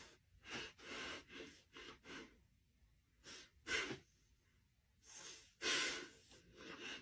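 Breathing: about ten short, breathy huffs in three groups, the loudest a little before the middle and again late on.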